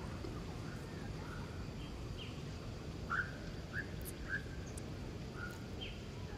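Birds chirping: a string of short, sharp calls, each sliding quickly downward in pitch, coming every half second to a second, over a steady low background rumble.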